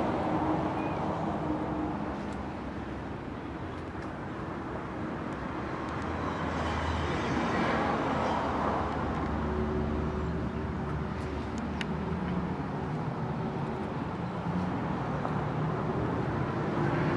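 Outdoor traffic noise: a motor vehicle passes nearby, its engine hum and tyre noise swelling through the middle and fading away, over a steady background rumble.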